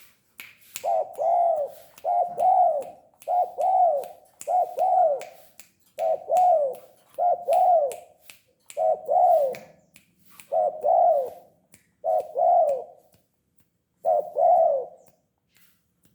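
Spotted dove (tekukur) cooing: a run of about ten short coo phrases, many of them doubled notes, each rising and falling in pitch. Sharp clicks come between the phrases.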